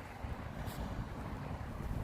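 Wind rumbling on the microphone, steady and low, with a faint brief scrape about two-thirds of a second in.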